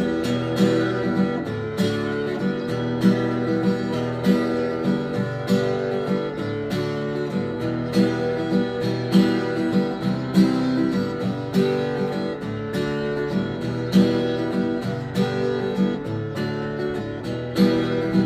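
Acoustic guitar strummed in a steady rhythm, playing the instrumental break between sung verses of a song.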